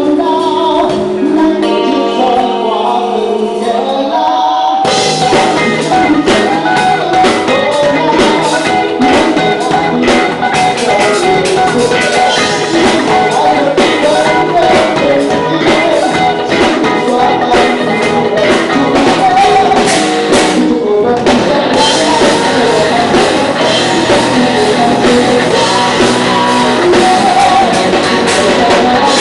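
Live rock band playing loudly: a few seconds of held, ringing chords, then about five seconds in the full band with drum kit comes in and drives on, dropping out briefly near twenty seconds in before resuming.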